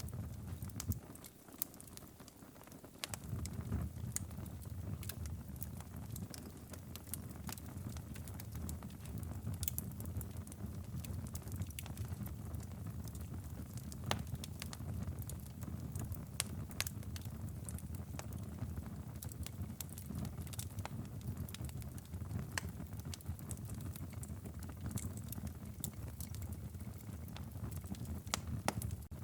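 Wood fire crackling steadily in a fireplace: a low rumble of flames with frequent sharp pops and snaps scattered through it, the rumble dropping away briefly a couple of seconds in.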